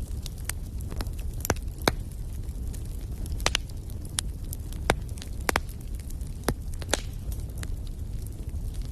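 Wood fire crackling in a fireplace: irregular sharp pops and snaps, a dozen or so, over a steady low rumble of the flames.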